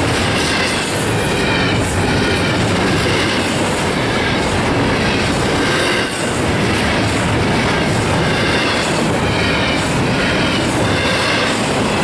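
Double-stack container well cars of a freight train rolling past steadily: steel wheels running on the rails, clicking over the rail joints.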